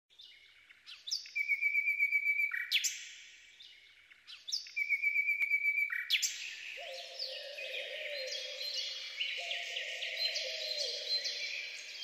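Birdsong: one bird sings the same phrase twice, quick high chirps running into a fast even trill. From about six seconds in, a dense chorus of many overlapping bird calls follows, and about a second later a low held tone comes in under it.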